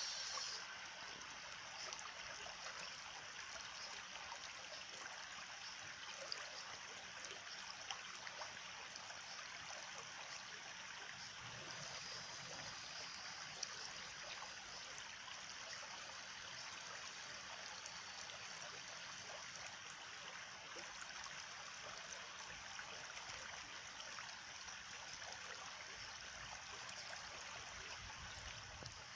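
A small stream flowing steadily, a continuous trickling, babbling water sound.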